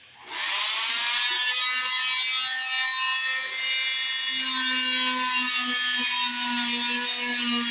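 Electric cast saw switched on about a third of a second in and running with a steady high whine while it cuts the leg cast; a lower steady hum joins a little past halfway.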